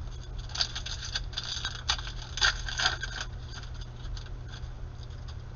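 Crinkling and scraping of a foil trading-card pack being torn open and its cards slid out by hand. The sounds come as a run of short scrapes over about three seconds, then stop.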